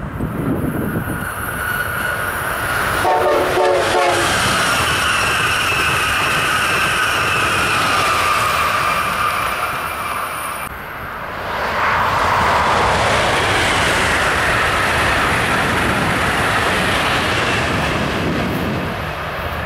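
A train passing close by on the tracks, with a short horn sound about three seconds in, then a long loud rush of wheels on rails that dips briefly past the middle and swells again before easing near the end.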